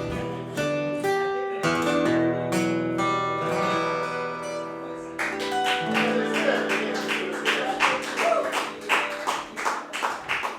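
Acoustic guitar playing an instrumental passage of a song, with ringing strummed chords. About five seconds in, the playing turns to sharp, evenly spaced rhythmic strikes.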